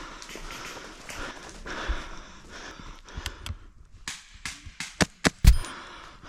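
Footsteps and rustling gear of a player moving on foot. In the second half comes a run of about eight sharp, irregular clicks or cracks, the loudest near the end.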